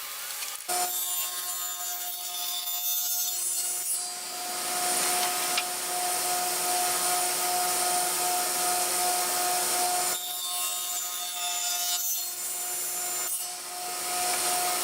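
Power saw with its blade lowered, cutting a shallow groove into wood. The motor's steady whine starts suddenly about a second in, and the louder cutting noise rises and falls twice over it.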